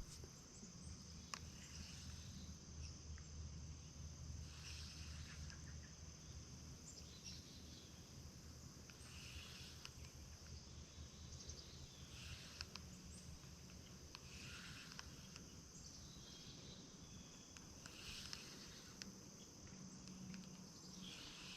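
Near silence with a faint, steady high-pitched insect trill, over a low rumble.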